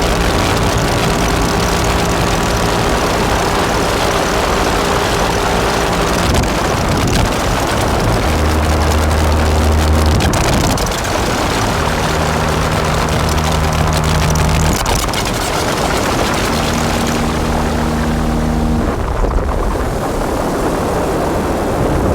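Distorted modular synthesizer drone from a Make Noise Strega, Maths and Morphagene system run through Death By Audio Evil Filter and Absolute Destruction fuzz. A thick, noisy wash sits over held low notes that change and drop out every few seconds.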